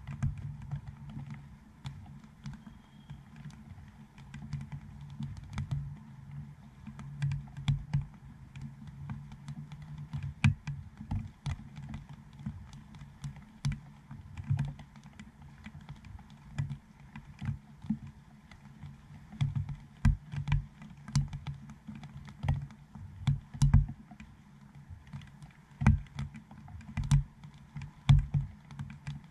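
Raindrops striking the plastic dome housing of a GoPro action camera in light rain: an irregular patter of taps and ticks, some much louder than others, over a faint steady hiss.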